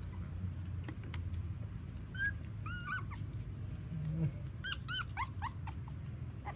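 Newborn puppies squeaking and whimpering: short high-pitched cries, each rising then falling, a few about two to three seconds in and a quick cluster around five seconds.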